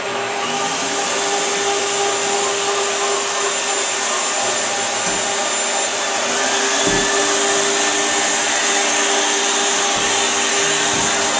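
Rotary floor machine running steadily, its pad dry-polishing marble with polishing powder: a motor hum under a loud, even hiss.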